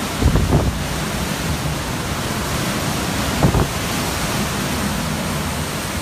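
Hurricane Irma's winds blowing as a loud, steady rush of noise, with gusts buffeting the microphone about half a second in and again about three and a half seconds in.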